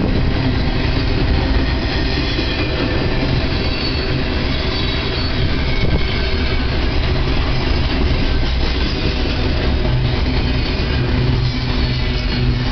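Double-stack intermodal well cars rolling past at close range: a steady, loud rumble of steel wheels on rail.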